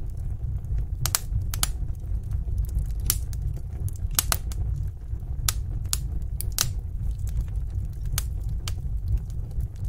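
Wood fire in a fireplace crackling: irregular sharp pops and snaps, about one a second, over a steady low rumble of burning.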